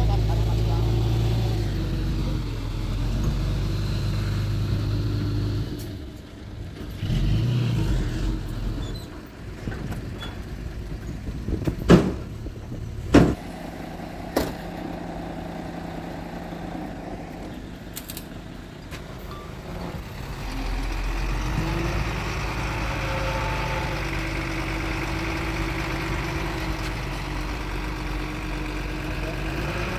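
Diesel engines of earthmoving machinery (a small bulldozer and dump trucks) running steadily, dropping off for a while and picking up again later. A few sharp bangs sound in the middle, two close together and a couple more soon after.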